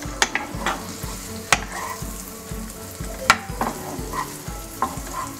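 Chopped garlic sizzling in melted butter in a nonstick wok, stirred with a wooden spatula that knocks sharply against the pan several times.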